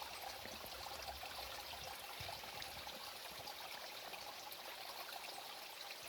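Rain with water running and trickling off a roof: a steady, faint wash of water with small scattered drips.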